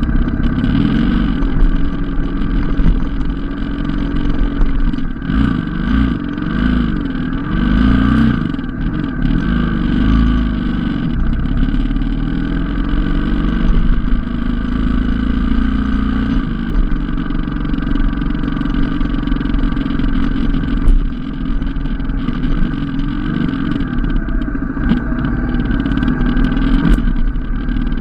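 Motorcycle engine running on a steep climb, its revs rising and falling several times between about five and ten seconds in, then holding steadier.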